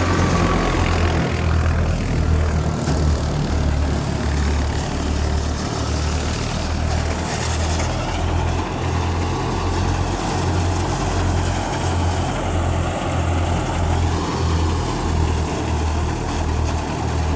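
Fiat Ghazi tractor engine running steadily with a regular low throb.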